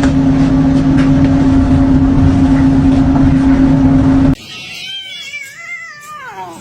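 A loud, steady machine hum with one held tone runs for about four seconds and then cuts off abruptly. After it, a cat meows several times, each call rising and falling in pitch.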